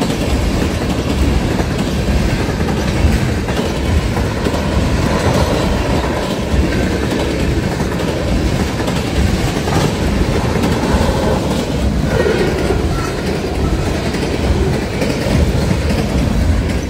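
Freight train cars rolling past close by, a loud steady noise with the wheels clacking over the rail joints.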